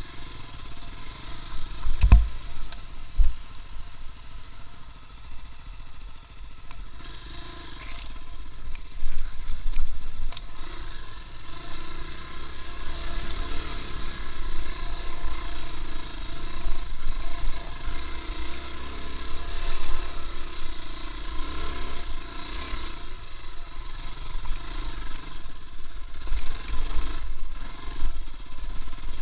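A vehicle on the move, with steady low rumble and noise, and a sharp knock about two seconds in.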